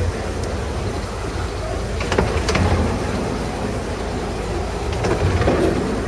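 15-inch gauge miniature railway train running along the track, heard from a carriage: a steady low rumble with a few sharp clicks from the wheels about two seconds in and again near the end.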